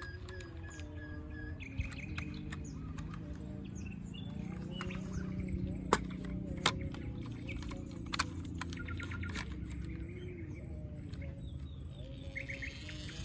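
Birds chirping over a steady low hum, with several sharp clicks and taps, the loudest about halfway through.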